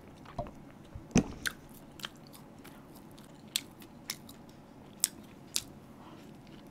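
Close-miked eating of a toast sandwich: biting and chewing with a scattered series of short, sharp wet mouth clicks and smacks, about eight in all, the loudest about a second in.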